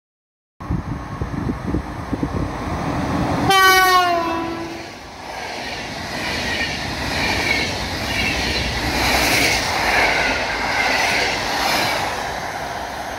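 EP09 electric locomotive's horn sounds once, about three and a half seconds in, as a single note held for about a second and a half. Before and after it comes the loud rumble and rush of the locomotive and its express coaches passing at speed without stopping.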